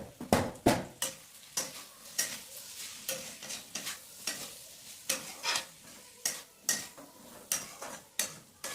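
A spatula stirring potatoes and flat beans with spices in a frying pan, scraping and knocking against the pan about twice a second, with a light sizzle of the vegetables frying underneath.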